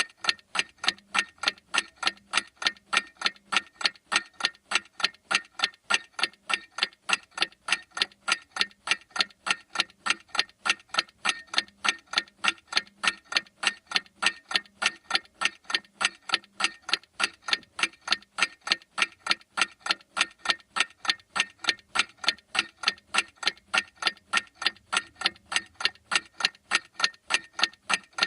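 Clock ticking steadily, sharp even ticks a few times a second.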